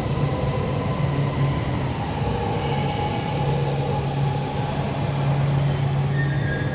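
Shenzhen Metro Line 8 train pulling into the platform: a steady low hum with thin whining tones from the wheels and drive.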